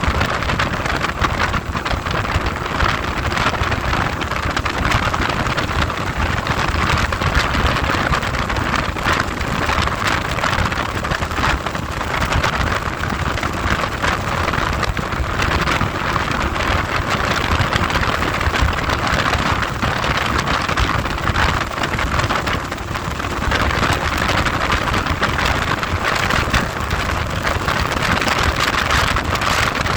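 Heavy wind buffeting the microphone of a camera on a moving vehicle: a loud, steady rushing roar with a low rumble beneath it.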